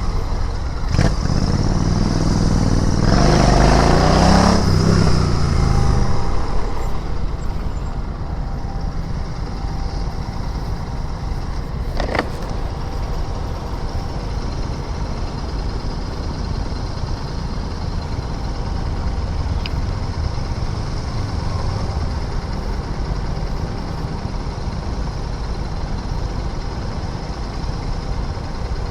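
Royal Enfield Interceptor 650's parallel-twin engine revving up and dropping back over the first few seconds, then settling to a steady low rumble, likely idling, with a single sharp click about twelve seconds in.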